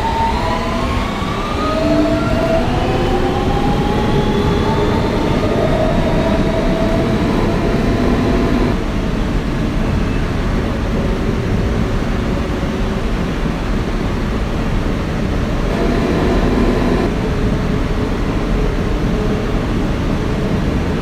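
Kawasaki R160B subway car with Siemens propulsion pulling out: the traction motors' whine rises through several pitches over the first eight seconds, over the steady rumble of wheels on rail in the tunnel. The motor tones return briefly about sixteen seconds in.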